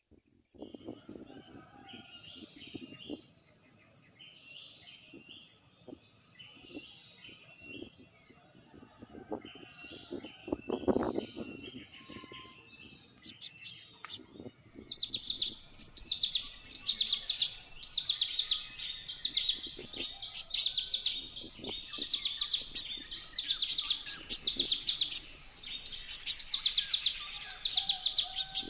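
Small birds chirping, scattered at first, then rapid, busy and louder from about halfway through, over a steady high-pitched insect drone.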